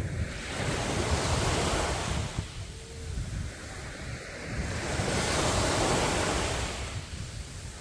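Sea waves breaking and washing up a sandy beach, two surges about four seconds apart, with wind rumbling on the microphone.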